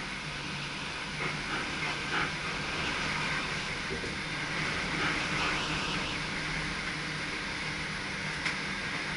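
Steady running noise in the driver's cab of an NS SGM Sprinter electric multiple unit on the move, the rumble and hiss of wheels on rail, with a few short clicks and squeaks.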